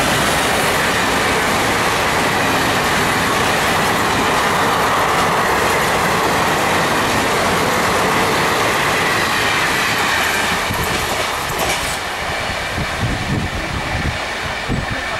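A passenger train passing at speed, its coaches' wheels running loudly over the track. The sound holds steady, then eases after about ten seconds as the rake goes by.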